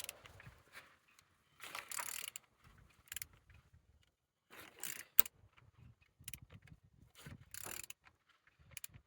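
Irregular mechanical clicks and clatter from a TU5JP4 1.6-litre petrol engine being turned over by hand, with one sharp click about five seconds in; it turns freely.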